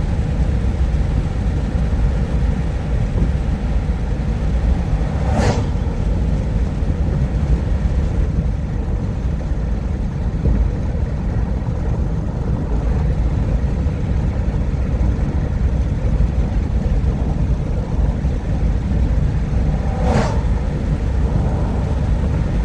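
Road noise inside a moving car at highway speed: a steady low rumble of tyres and engine. Two brief sharp noises break in, one about five seconds in and one near the end.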